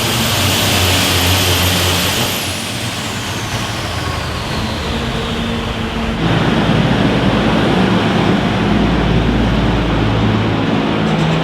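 Big pulling-vehicle engine running, with a high whistle that falls steadily in pitch over several seconds. About six seconds in, the sound changes abruptly to a heavier, deeper engine rumble.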